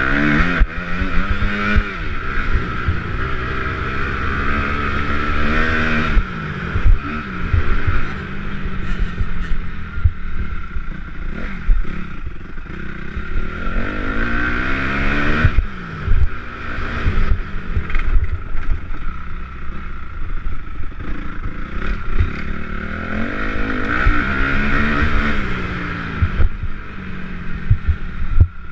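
Motocross motorcycles racing, several engines revving up and falling back again and again as riders accelerate, shift and brake, over a steady drone of other bikes around the track.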